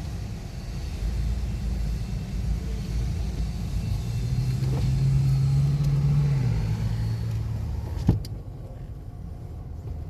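Car engine running with a low rumble as the car moves off slowly, its hum swelling for a few seconds in the middle, then a single sharp click about eight seconds in.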